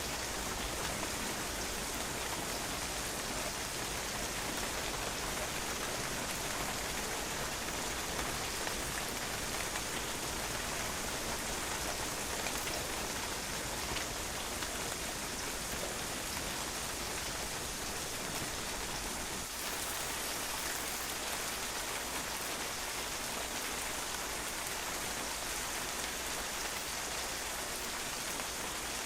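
Steady rain, drops pattering on a patio, an even hiss of noise with countless small taps.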